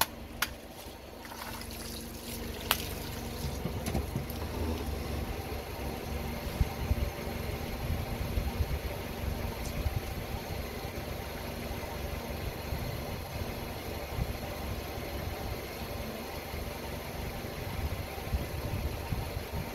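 Car engine idling steadily, with a few sharp cracks in the first three seconds.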